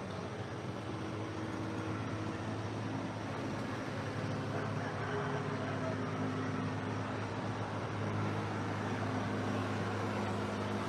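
A steady engine drone that slowly grows louder.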